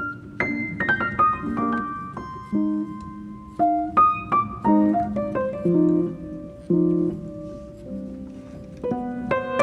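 Background piano music: a slow melody of single struck notes over low chords.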